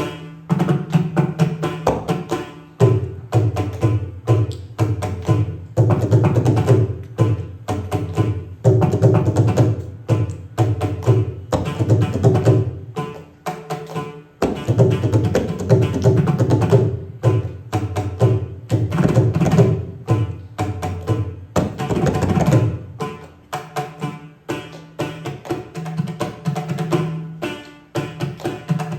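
Indian hand drums playing a fast, dense Carnatic rhythm, rapid strokes over ringing low drum tones.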